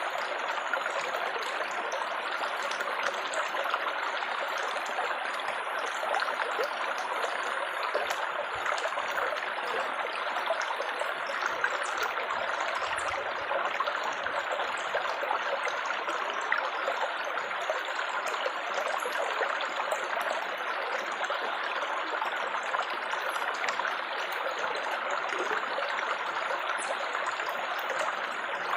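Water trickling and babbling steadily, a continuous splashing flow with small droplet splashes.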